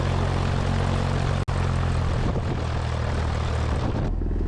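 Cessna 172S's four-cylinder piston engine and propeller running steadily at low power before the takeoff roll. The sound cuts out for an instant about a second and a half in, and its tone changes shortly before the end.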